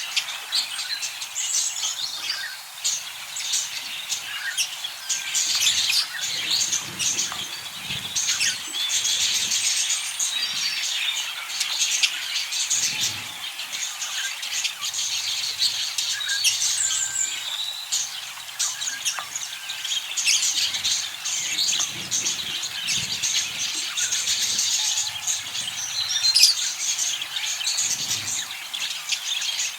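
Budgerigar chirping and chattering without a break, a dense run of quick high chirps.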